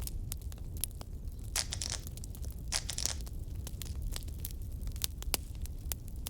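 Fireplace fire crackling with frequent sharp pops over a steady low rumble, and two short hissing bursts, about one and a half and three seconds in.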